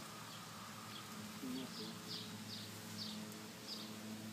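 A small bird chirping repeatedly: short, high, falling notes about twice a second, over a low steady hum.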